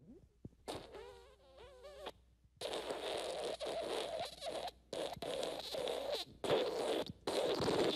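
Fart sound effects. First a squeaky fart wobbling up and down in pitch for about a second and a half, then a long sputtering, raspy fart run in several spurts with brief breaks.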